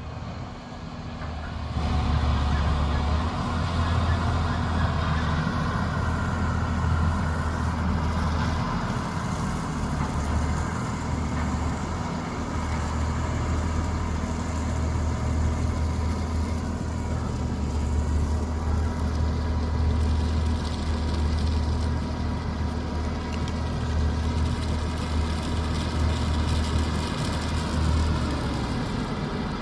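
Heavy diesel harvest machinery running steadily, a deep engine drone with a steady hum over it. The sound swells over the first two seconds, then holds.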